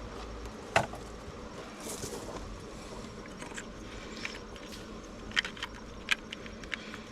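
Scattered sharp metal clicks and clinks of hand tools working on the engine bay, with a louder click about a second in and a cluster of them a little past the middle.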